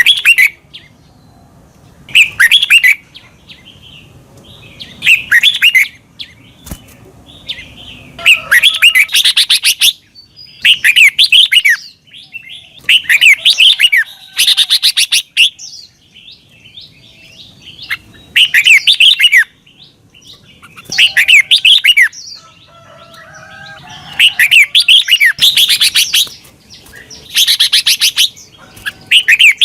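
Red-whiskered bulbul singing: short, bright warbled phrases of quick rising and falling notes. Each phrase lasts about a second and they repeat every two to three seconds, with brief pauses between.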